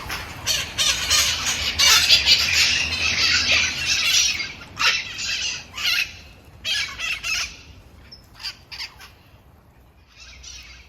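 A flock of parrots squawking with harsh, raspy calls, densest about two to four seconds in, then thinning to scattered calls that fade toward the end.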